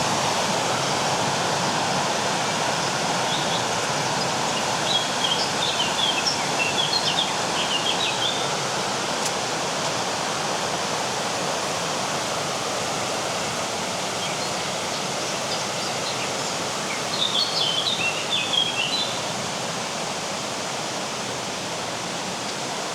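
Steady rush of flowing river water, growing slightly fainter toward the end. A small songbird twitters over it in two short bursts, about five seconds in and again near the end.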